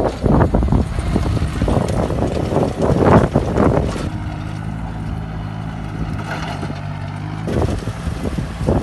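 VST Shakti tractor's diesel engine running with a steady low hum. Rough, irregular noise lies over it for the first four seconds and again for the last second or so.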